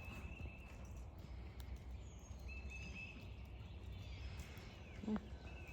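Quiet outdoor backyard ambience: a steady low rumble with short, faint runs of high thin chirps and a few light clicks and taps.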